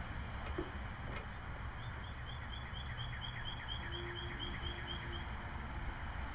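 A bird calling a quick run of short, repeated high notes, about four a second, for a few seconds in the middle, over a steady low rumble of wind on the microphone.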